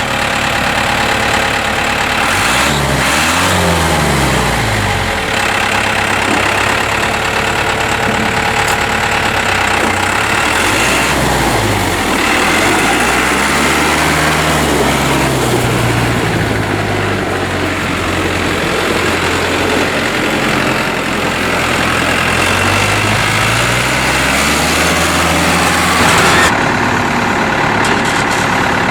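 2005 Case IH JX75's four-cylinder diesel engine running, its speed rising and falling several times.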